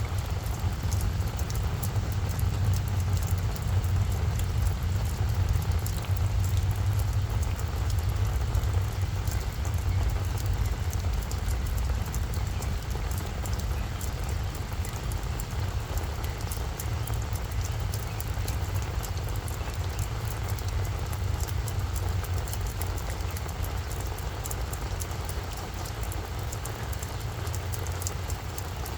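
Steady rain falling on a flower bed, many separate drops pattering and ticking, over a steady low rumble.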